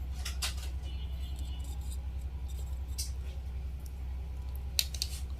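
Steady low electrical mains hum, with a few light clicks and taps from small hand work about half a second, three seconds and five seconds in.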